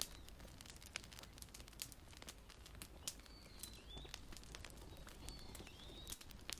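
Wood fire crackling with frequent sharp, irregular pops, while a bird chirps faintly a few times in the background.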